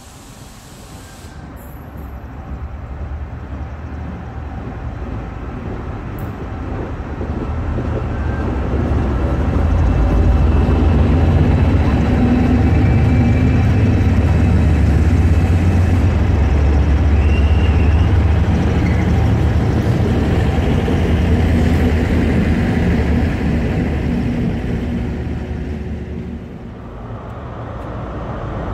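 Locomotive-hauled freight train of tank wagons passing through a station: a heavy rumble that builds up, is loudest for about ten seconds in the middle, then fades away as the train goes by.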